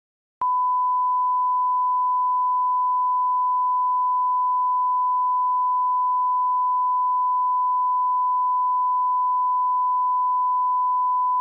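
Steady pure-tone audio test tone at −18 dB reference level, one unchanging pitch held throughout. It starts with a brief click about half a second in.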